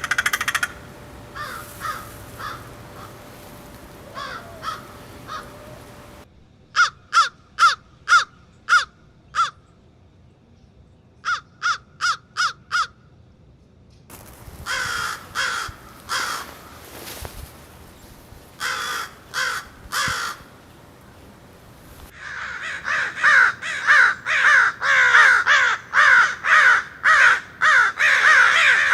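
A group of crows cawing: a few quieter caws, then runs of four to six short, evenly spaced caws. In the last several seconds several birds overlap into a dense chorus of caws.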